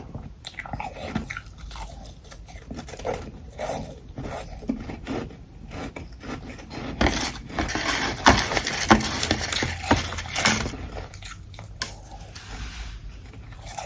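Ice being bitten and chewed close to the microphone: a long run of hard, crackly crunches, densest and loudest in the middle, with softer, sparser chewing before and after.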